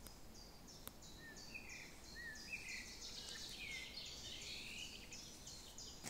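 Faint birdsong from more than one bird: a quick run of high chirps repeated about three times a second, with short lower whistled phrases coming in about a second in.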